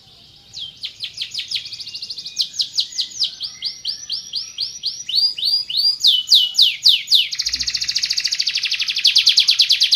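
Van Hesterling canary singing a long, varied song of rapidly repeated high notes: runs of downward-sweeping chirps and rolling trills, with a very fast, even trill near the end.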